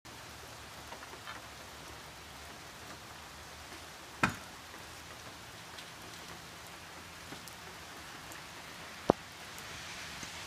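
Steady rain falling, an even patter, broken by two sharp knocks: one about four seconds in and a louder, shorter one about nine seconds in.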